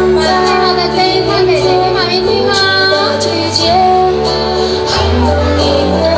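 A chorus of young children singing a song together with a female voice, over a recorded backing track with a steady bass line.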